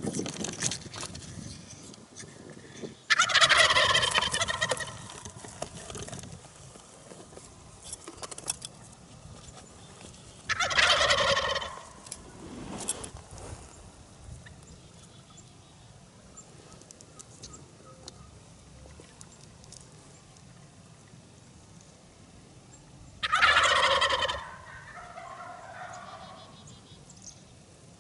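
Wild turkey toms gobbling, three loud rattling gobbles several seconds apart, the last trailing off into softer calling.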